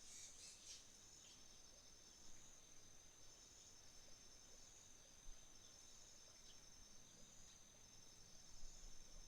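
Faint chorus of autumn insects: one high trill runs on without a break while a second, pulsed trill comes in short repeated phrases. There is a brief louder burst in the first second.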